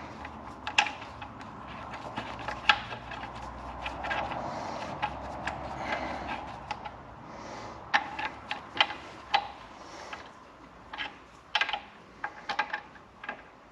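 Hand tools working the nuts on a stripped-down engine: irregular sharp metallic clicks and clinks, with a softer rubbing noise about four to seven seconds in.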